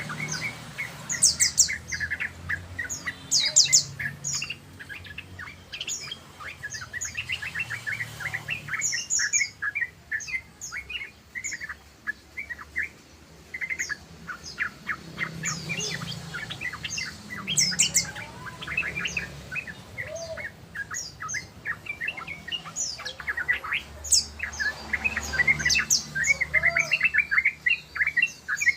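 Yellow-vented bulbuls (trucukan) singing rapid chattering runs of short, quick notes, pausing briefly between runs and starting again.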